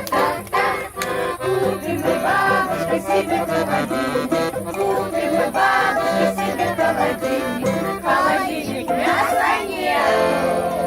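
A group of voices singing a cumulative Russian children's folk song at a fast pace, rattling through its list of farm-animal sounds. The pitch slides and swoops more widely near the end.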